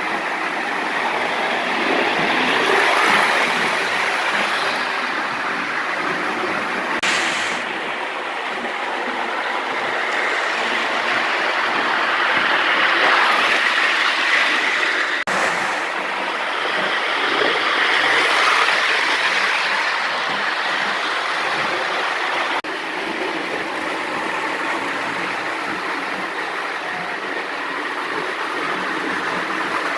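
Lionel 1666E O-gauge toy steam locomotive running on three-rail track, pulling heavy passenger cars: a steady rolling rumble and wheel clatter with motor whir that grows louder and softer several times as the train comes nearer and moves away.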